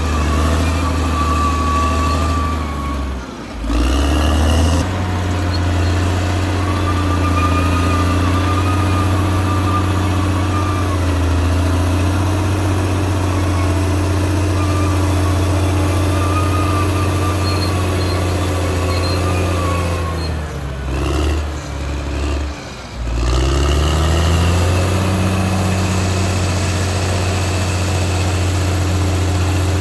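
Caterpillar D6R XL bulldozer's diesel engine running under steady throttle. Its pitch sags and recovers briefly about three seconds in, then again for a few seconds past the two-thirds mark, when it drops lower and climbs back up slowly.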